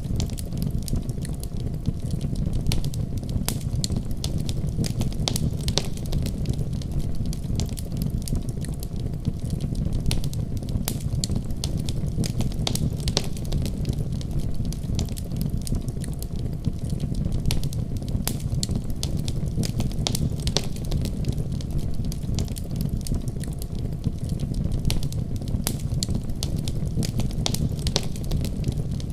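Wood fire crackling: a steady low rumble of flames with frequent sharp pops and snaps at irregular intervals.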